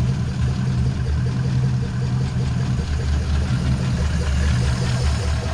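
Ford flathead V8 idling steadily, just after moisture was cleaned out of its distributor cap.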